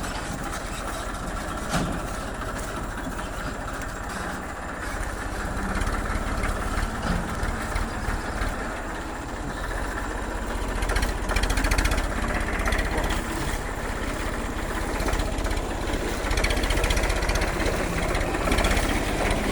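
Tractor engine running steadily, getting louder at times around the middle and near the end.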